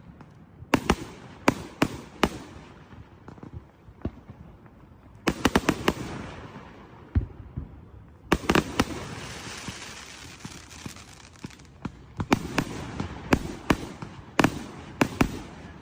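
Consumer fireworks going off: a run of sharp bangs, a quick volley about five seconds in, then a loud bang a little past eight seconds followed by a few seconds of crackling hiss, and more scattered reports toward the end.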